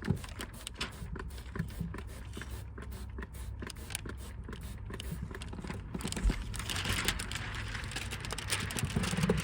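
Soft crinkling and small clicks of plastic window-tint film being handled and smoothed, over a steady low rumble; an even hiss joins about two-thirds of the way through.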